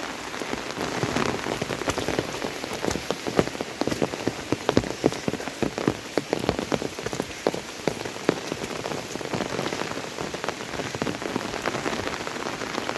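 Monsoon rain falling steadily, with many sharp drop hits close by.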